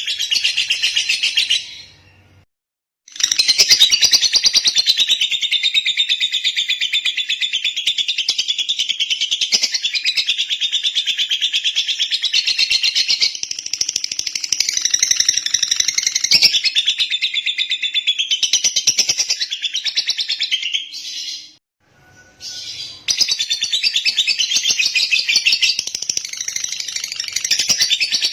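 Lovebird chattering in a long, rapid, high-pitched song. It breaks off twice for about a second, once near the start and once well past the middle, and then carries on.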